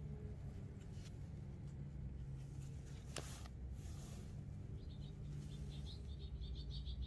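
Faint bird chirping: a quick run of short, high, repeated notes starting about five seconds in, over a low steady hum. A single sharp click comes about three seconds in.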